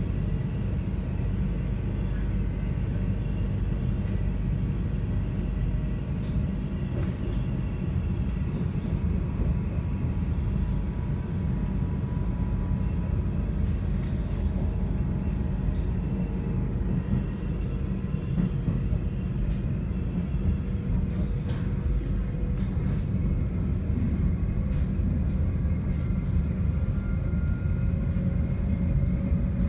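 Inside an NS Sprinter Light Train electric multiple unit under way: a steady low rumble of wheels on the track. Faint whining tones glide in pitch, one rising near the end.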